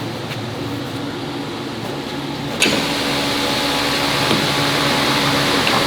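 A steady machine hum. About halfway through, a louder hiss starts suddenly and keeps going.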